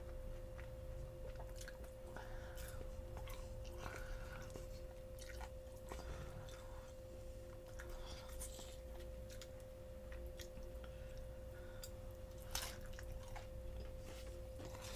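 Close-miked chewing and biting of glazed fried chicken: irregular wet mouth clicks and small crackles. A faint steady electrical hum lies under it.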